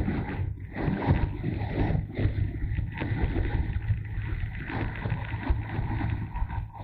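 Motorcycle on the move: engine running under a constant rush of wind buffeting the microphone.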